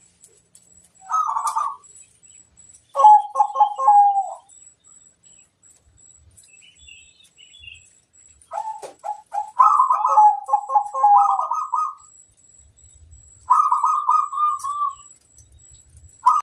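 Zebra dove (perkutut) cooing in repeated phrases of rapid, pulsed notes, with pauses of a few seconds between them. The longest phrase comes a little past halfway.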